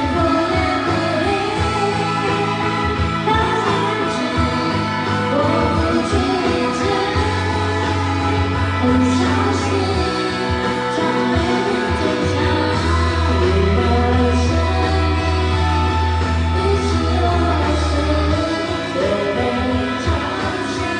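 A pop ballad sung with instrumental backing, with long held bass notes under the voice.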